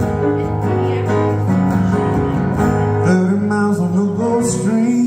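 Live band playing an instrumental break in a country-rock song, with guitar carrying the lead and a melody line bending in pitch in the second half.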